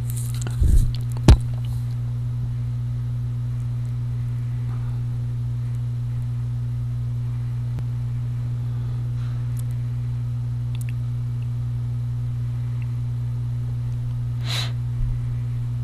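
Steady low electrical hum at one unchanging pitch, with a fainter higher tone above it. A short click comes just over a second in, and a brief hiss about a second before the end.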